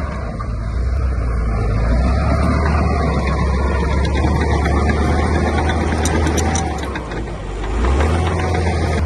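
A heavy construction machine's diesel engine running with a deep, steady rumble. It eases off briefly about seven seconds in, then comes back up.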